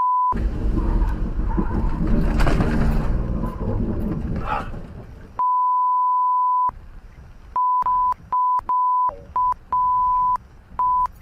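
Censor bleeps: a steady 1 kHz beep that replaces the audio, once briefly at the start, once for about a second and a half in the middle, then several short bleeps in quick succession near the end. Between the bleeps is loud, noisy dashcam vehicle and road sound.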